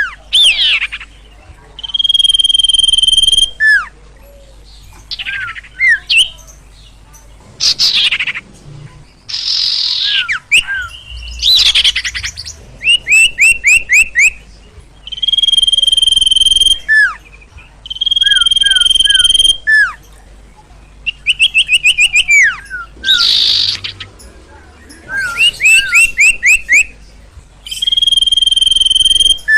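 A 'sirtu' (sirpo) songbird in full, agitated song: long level whistles alternate with quick runs of short downslurred chirps and steep falling swoops, a new phrase every couple of seconds.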